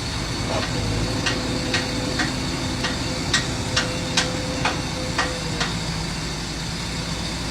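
A heavy construction machine's engine running steadily. Over it comes a run of sharp metallic clicks or clanks, about two a second, for roughly four seconds from about a second in.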